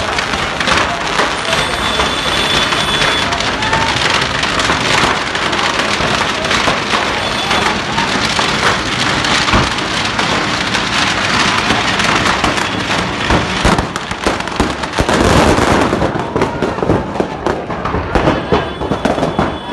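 Firecrackers going off in a dense, continuous crackle of rapid pops: the stock of a burning fireworks shop igniting. Voices are heard through it.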